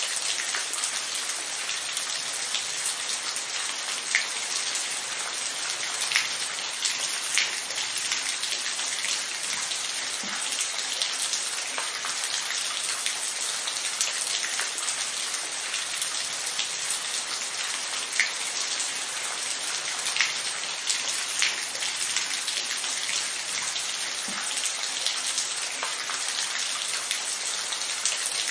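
Steady rain falling, an even hiss with individual heavier drops ticking now and then on a surface.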